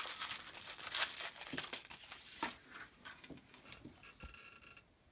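A fortune cookie's plastic wrapper crinkling and tearing open, followed by a few small crackles and clicks. A brief high ringing tone sounds about four seconds in.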